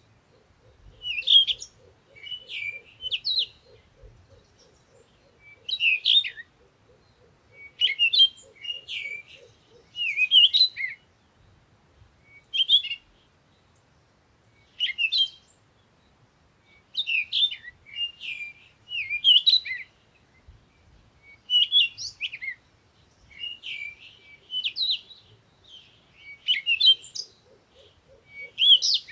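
Songbirds chirping: short clusters of quick, high, sweeping notes repeating every second or two. A faint, fast, low pulsing trill runs under them for the first third and returns near the end.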